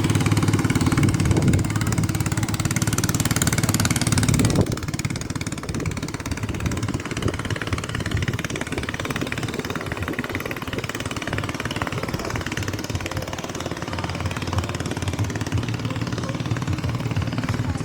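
Engine running steadily, louder for the first four and a half seconds, then dropping to a lower, even level.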